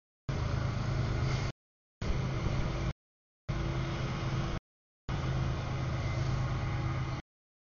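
Double-stack freight train rolling past: a steady rumble with a low drone. The sound drops out to dead silence four times for about half a second each, as the recording's audio glitches.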